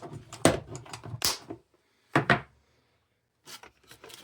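Clatter of parts being handled as the animatronic's neck bracket is fitted back on: a run of sharp clicks and knocks, with the loudest, a double knock, about two seconds in, and a few lighter taps near the end.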